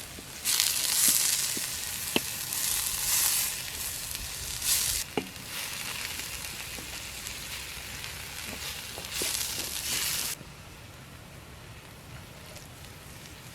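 Food frying and sizzling in a hot pan. The loud sizzle swells in bursts, with a few light knocks like a utensil on the pan, then cuts off abruptly about ten seconds in, leaving a quieter steady hiss.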